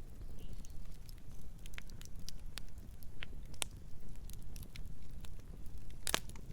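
Campfire burning, with a low steady rumble of flames and scattered sharp crackles and pops of burning wood. The loudest pops come in a quick cluster about six seconds in.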